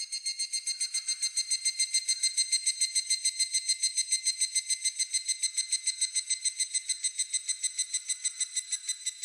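Higurashi (evening cicada, Tanna japonensis) calling: a high, clear phrase of rapidly repeated notes, about eight a second. It swells in at the start and fades out near the end.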